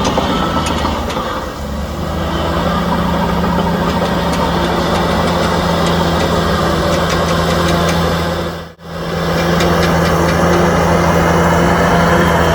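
Heavy diesel engine of earthmoving machinery running steadily with a low, even drone. The sound cuts out for an instant about nine seconds in, then carries on as before.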